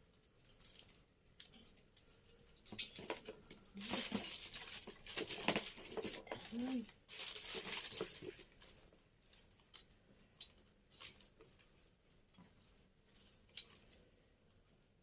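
Handling noise from fitting together the parts of a microphone kit. Dense rustling and scraping runs from about three to nine seconds in, with scattered clicks before and after.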